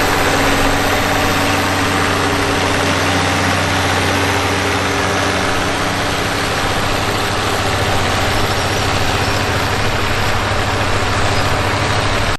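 Homemade mini tractor's engine running steadily and loud, with an even beat and no change in speed.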